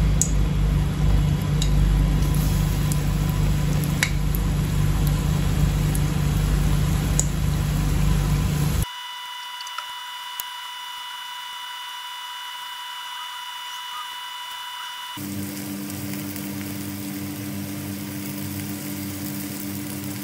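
Steady motor hum, with faint hiss and a few pops from tofu cubes frying in oil in a wok. The sound changes abruptly twice, about nine and fifteen seconds in, where clips are cut together.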